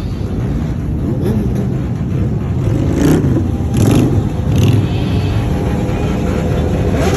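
Motorcycle engines running with a steady low rumble, with three short louder blips of the throttle a little under a second apart about halfway through and a rising rev near the end.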